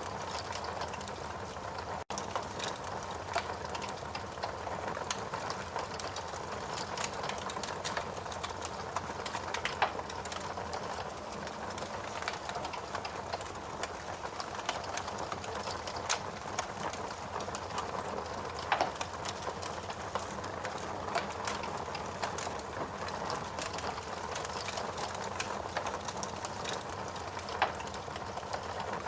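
A wood fire burning in a fireplace, crackling steadily: a constant rush of flame with frequent small sharp crackles and a few louder pops. The sound drops out for a split second about two seconds in.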